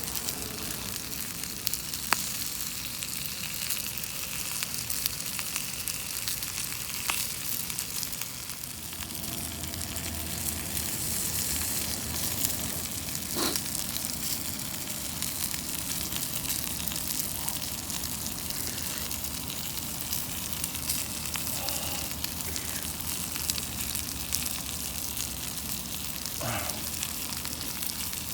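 Chicken thigh frying in a cast-iron skillet over a campfire: a steady sizzle with a few sharp pops.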